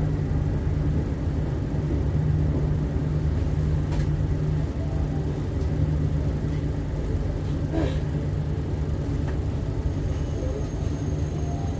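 Steady low rumble and hum inside a passenger train carriage, with a couple of faint clicks.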